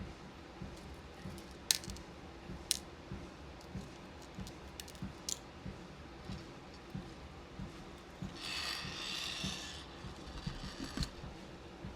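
Soft footfalls on a walking-pad treadmill, about two a second, with scattered sharp clicks of beads and small plastic containers being handled. About eight seconds in comes a rustle lasting nearly two seconds.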